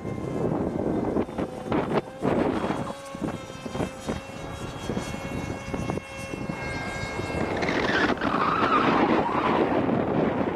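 Electric radio-controlled model aircraft's motor and propeller whining as it flies, with a steady tone, then growing louder and sweeping in pitch for a few seconds near the end as it passes close.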